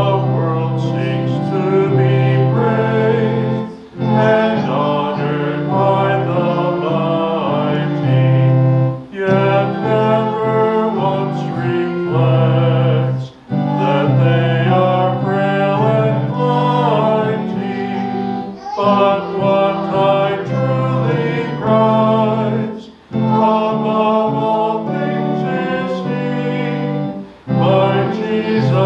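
Congregation singing a hymn with instrumental accompaniment, line by line, with short breaks between phrases about every four to five seconds.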